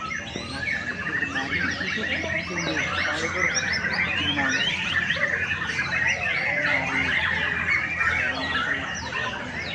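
Many caged songbirds singing at once: a dense, unbroken chorus of fast overlapping chirps and trills, with a murmur of voices underneath.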